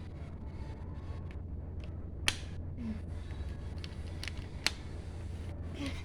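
Plastic Lego bricks clicking as they are handled and pressed together: several short, sharp clicks, two of them louder, over a steady low hum.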